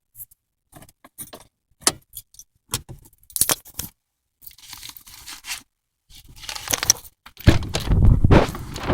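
Keys jangling among scattered clicks and rattles of handling. Over the last few seconds a rushing noise with heavy low thumps builds up and grows loud.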